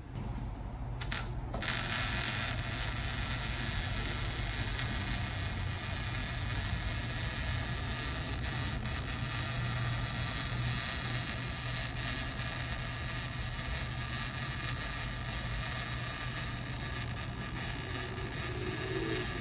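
Metal fabrication on a car's new straight-pipe exhaust: a steady hiss with a low hum under it starts abruptly about one and a half seconds in, after a couple of short clicks.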